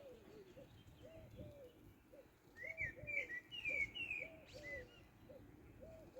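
A dove cooing in a steady repeated phrase of two longer notes and a short one. From about a third of the way in to near the end, a small songbird sings a brief, louder run of quick down-slurred chirps over it.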